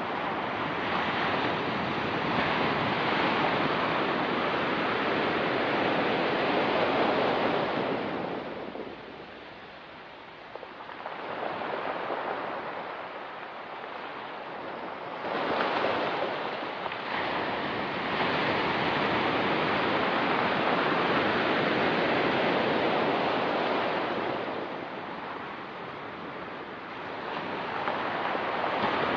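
Ocean surf breaking and washing on a rocky beach, surging and ebbing in long swells. It eases into lulls about a third of the way in and again near the end, and a fresh wave breaks sharply about halfway.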